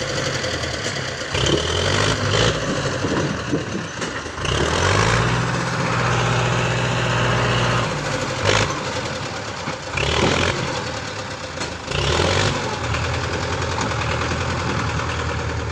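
Diesel tractor engine working under the load of a full trolley, its speed rising and falling several times, with rattling and clanking over the engine note.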